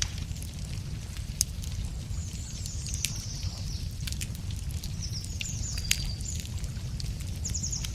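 Wood campfire crackling with a few sharp pops over a steady low rumble, while small birds sing short high phrases in the background.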